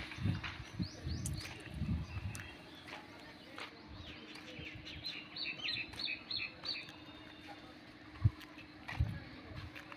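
Small birds chirping, with a quick run of short, high repeated notes about five seconds in, over a faint steady hum and a few low thuds.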